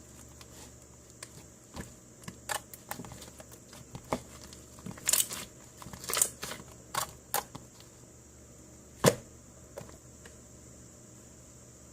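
Slime being played with by hand: irregular sharp clicks and pops from air pockets in the slime, with a cluster around five to seven seconds in and the loudest pop about nine seconds in.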